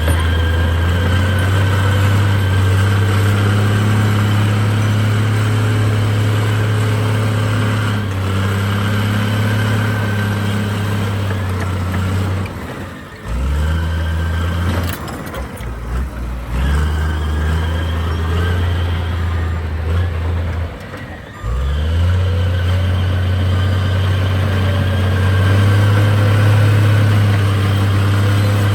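Diesel engine of heavy earthmoving equipment running under load: a deep, steady engine note that drops away briefly a few times partway through and then comes back.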